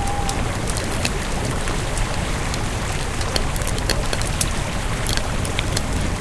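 Campfire burning: wood crackling with many sharp, irregular snaps over a steady low rumble of the flames.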